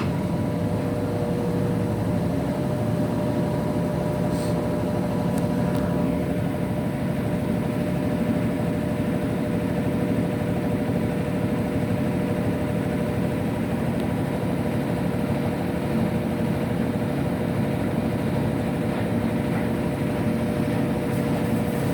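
Electrolux LF75 washing machine running its wash cycle: a steady motor hum with a few faint steady tones, one of which fades out about six seconds in.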